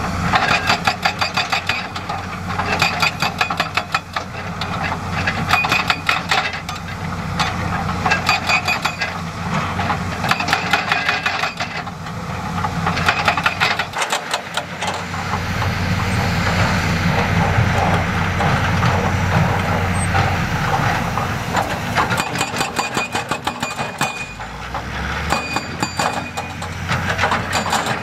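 Heavy diesel construction machinery running, with bursts of rapid clattering knocks and scrapes of rock and metal; the engine swells louder and steadier for several seconds in the middle.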